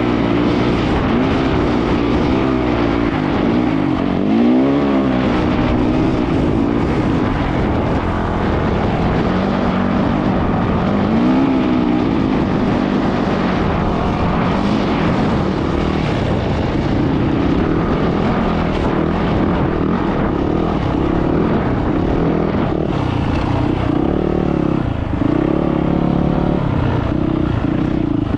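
Yamaha YZ450F dirt bike's 450 cc four-stroke single-cylinder engine under hard throttle in sand, its pitch rising and falling again and again as the rider opens and rolls off the throttle.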